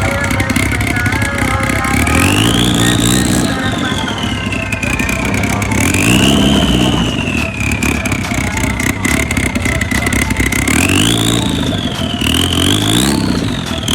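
Car engine being revved in about four blips through its exhaust, the pitch climbing and falling each time, with a high whine rising and falling along with the revs.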